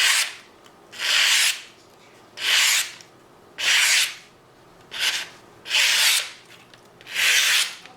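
QSP Parrot knife's D2 steel blade shaving curls off a piece of wood, in about seven even scraping strokes a little over a second apart.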